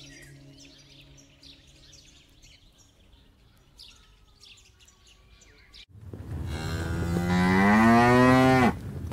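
Faint bird chirps, then about six seconds in a cow moos once: a long, loud moo that rises in pitch and cuts off suddenly.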